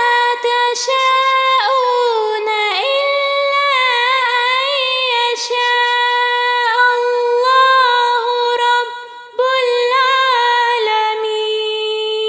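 A female voice chanting Quran recitation unaccompanied, in a slow melodic style. She draws the vowels out into long held notes with ornamented turns, with one short break about 9 seconds in.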